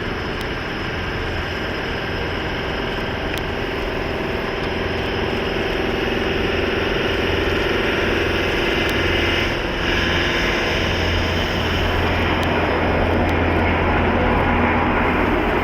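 Heavy jet aircraft's turbofan engines running steadily, slowly growing louder as it approaches, with a faint held tone in the engine noise.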